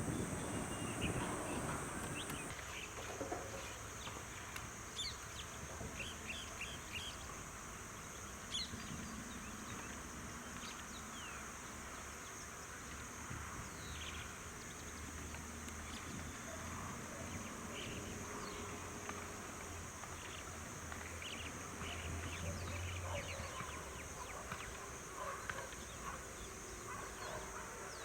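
Outdoor bird chorus: scattered short chirps and call notes from small birds over a steady high-pitched insect drone, with a faint low hum underneath.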